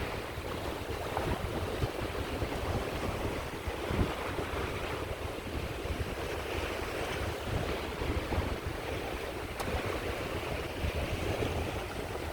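Caspian Sea waves washing onto the shore in a steady wash of surf, with wind rumbling on the microphone.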